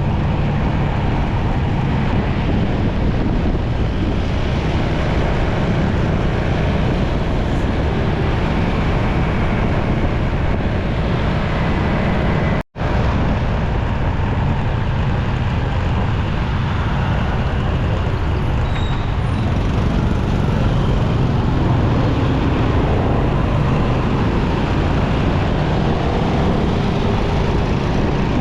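Steady noise of a motorcycle riding through city traffic, its engine and road noise running continuously. The sound drops out completely for a split second about halfway through.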